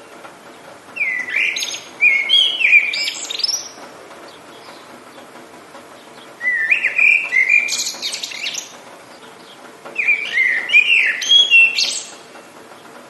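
A songbird singing the same quick, warbling phrase three times, each about two to three seconds long, over a steady hiss of rain.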